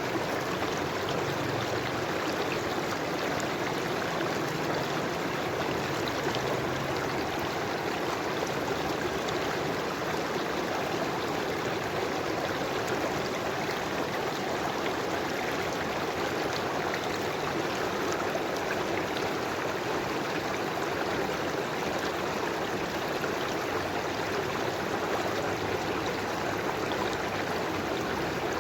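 River water flowing, a steady, unbroken rush and trickle.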